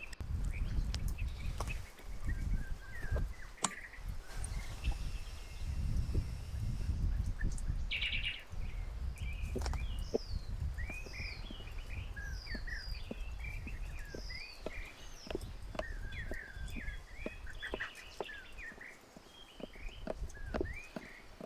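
Small birds chirping in many short rising and falling calls, thickest in the second half, over a low, gusty rumble, with scattered light clicks.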